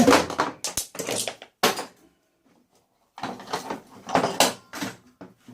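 Metal parts of a microwave clattering and knocking as they are pulled apart and handled: a run of short, sharp knocks, then a pause of about a second, then a denser run of knocks and rattles.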